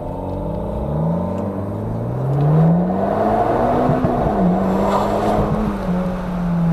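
Car engine heard from inside the cabin, pulling under acceleration: its note climbs over the first few seconds, holds steady with a brief dip about halfway through, then falls away near the end.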